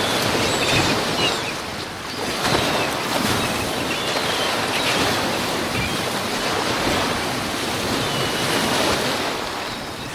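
Rough lake surf whipped up by high winds, with waves breaking continuously and the rushing noise swelling and easing, mixed with wind.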